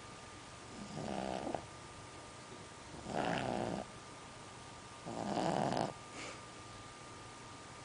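A sleeping bulldog snoring, three snores about two seconds apart.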